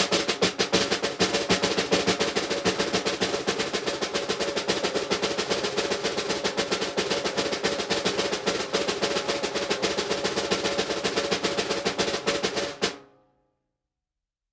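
Drum roll sound effect: a rapid, steady snare drum roll lasting about thirteen seconds, stopping abruptly near the end.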